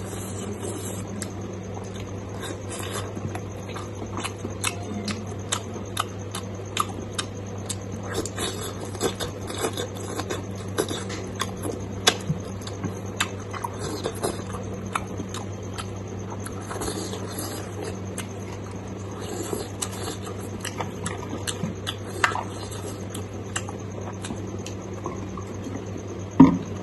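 Close-up eating sounds of pork and rice being chewed: many short, irregular wet clicks and lip-smacks over a steady low hum, with a brief louder sound near the end.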